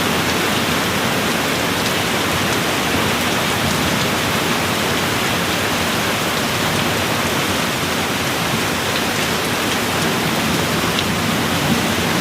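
Steady rain falling, an even hiss of drops without breaks or thunder.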